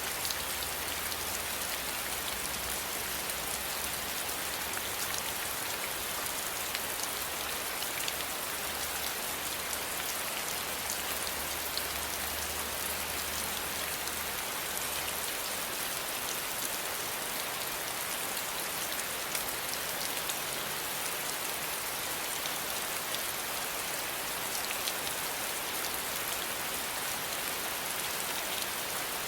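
Steady rain falling, an even hiss with many single drops ticking through it. A faint low rumble sits beneath it for the first half and fades out about halfway through.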